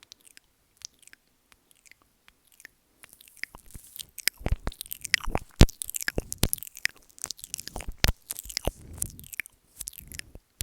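Close-miked ASMR mouth sounds: wet clicks and smacks of the tongue and lips on or right at the microphone. They start sparse, then turn dense and louder about three seconds in, easing off near the end.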